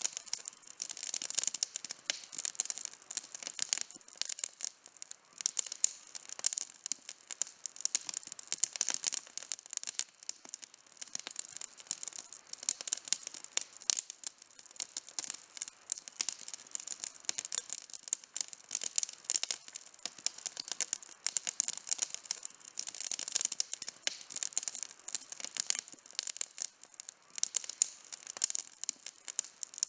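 Campfire burning with a dense, continuous crackle of small pops and snaps from the burning wood.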